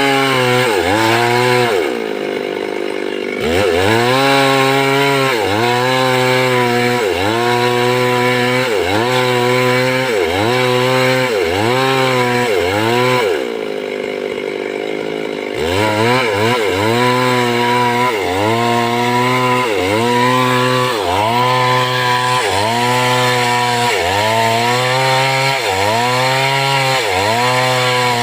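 Stihl two-stroke chainsaw running hard, its pitch dropping and climbing back about once a second as the throttle is worked. Twice it falls to a lower, steadier note for a second or two.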